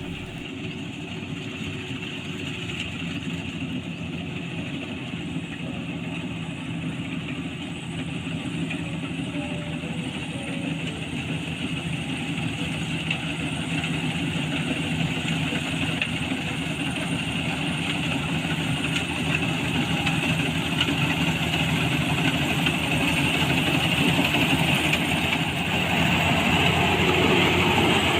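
Combine harvester running steadily in a rice paddy, a continuous engine and machinery drone that slowly grows louder.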